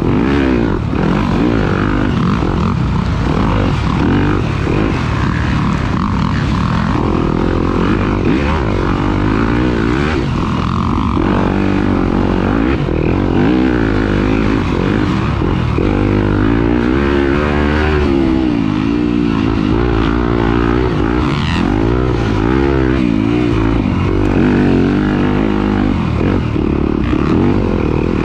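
Off-road racing engine running hard throughout, its pitch rising and falling again and again as the throttle is opened and closed.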